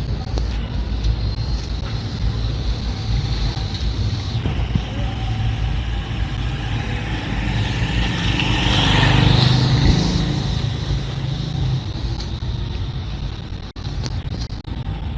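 A motor vehicle passes close by over steady street noise: its engine hum and tyre hiss build to their loudest about nine seconds in, then fade.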